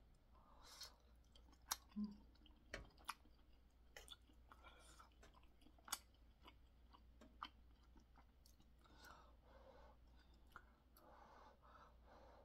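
A person chewing chewy boneless chicken feet, with faint, soft, wet mouth sounds and a handful of scattered sharp clicks.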